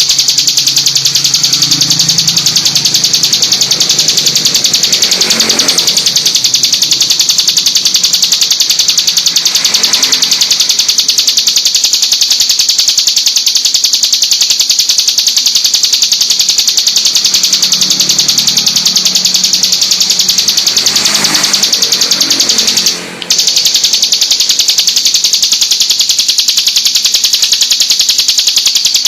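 Ciblek gunung, a small prinia songbird, singing a continuous, rapid, high-pitched trilling song at full pace. There is a momentary break late on.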